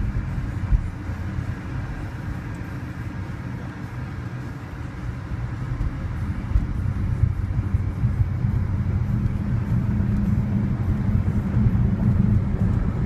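BMW i3 electric car under way: a low road rumble with no engine note, growing louder from about five seconds in as the car accelerates on a 0-to-60 run.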